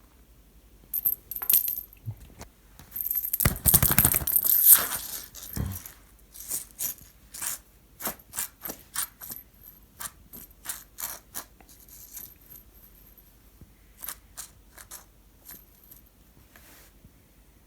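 Small cat toy being batted and tossed around, giving a run of quick rattling, jingly clicks. They come thick and loud about three to six seconds in, then scattered taps that thin out near the end.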